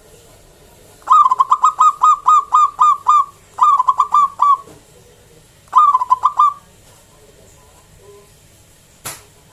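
Zebra dove (local perkutut) cooing its song: three bursts of rapid staccato notes, about five a second, with a short pause between bursts. A single sharp click near the end.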